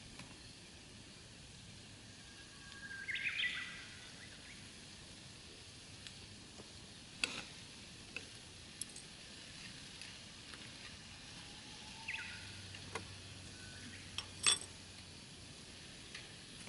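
Quiet outdoor ambience with a few short bird calls, one cluster about three seconds in and another near twelve seconds. Several sharp, isolated clicks are scattered through the second half.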